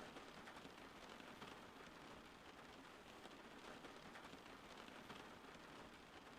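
Faint, steady rainfall with a continuous patter of drops.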